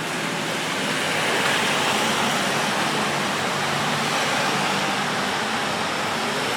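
Steady hiss of rain and wet road, with car tyres swishing past on the wet street, the noise swelling a second or two in and then holding.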